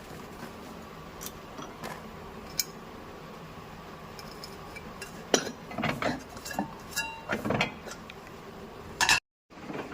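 Metal fan parts clinking and knocking by hand during ceiling fan assembly, over a steady workshop hum. A few single clicks early on, then a busy run of knocks and short ringing metallic clinks from about halfway through.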